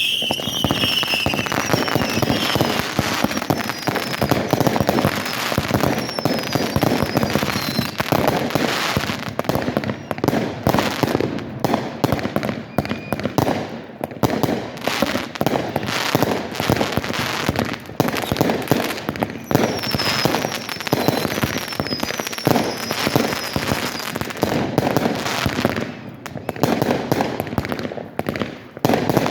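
Fireworks going off in a dense, continuous barrage of rapid bangs and crackles, with short high falling whistles about a second in and again about two-thirds of the way through.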